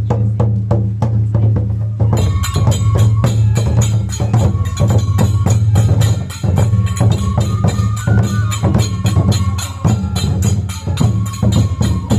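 Japanese festival dance music: rapid clacking percussion over a steady low hum, joined about two seconds in by dense jingling, clashing percussion and a high held melody line.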